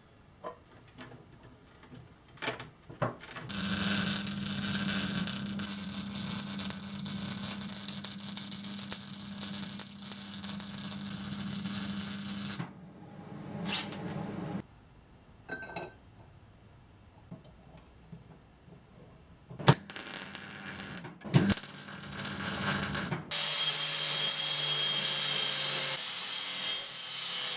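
Electric power tool running steadily for about nine seconds, then a lull with a few clicks and knocks, a couple of sharp metal knocks and a short run, and near the end a different steady run with a thin high whine, during metal fabrication of sawmill shaft parts.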